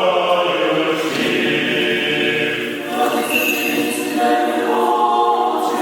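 Orthodox church choir singing liturgical chant a cappella, several voices holding long notes together and moving in harmony.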